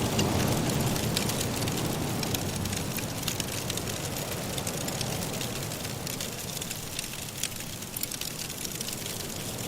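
Wood fire crackling in a fireplace, with scattered sharp pops and snaps over a steady low rush of blizzard wind.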